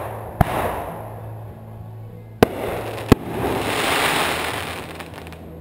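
Fireworks going off: three sharp bangs in the first three seconds or so, then a dense crackle that swells and fades over about two seconds as a shell's scattered stars burn out.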